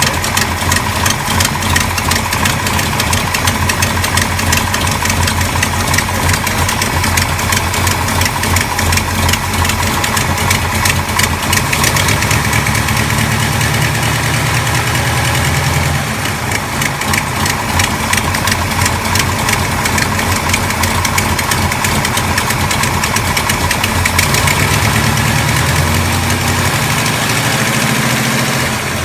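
Engine of a 1970 Dodge Charger fitted with an aggressive Lunati aftermarket camshaft, running at idle with a steady pulsing beat. Its speed rises briefly twice, about twelve seconds in and again near the end.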